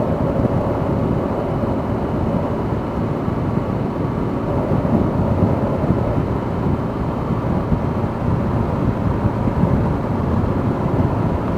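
A motorcycle riding at steady speed: a constant rush of wind buffeting and road and engine noise on the microphone.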